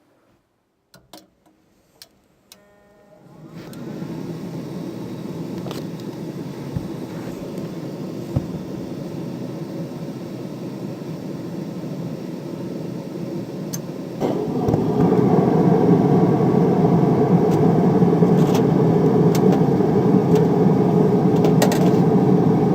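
Trane gas furnace starting a heating cycle on a newly fitted control board. A few sharp relay clicks come first, then the draft inducer motor spins up with a rising whine and runs steadily. About eleven seconds later the sound steps up clearly louder as the next stage of the furnace comes on.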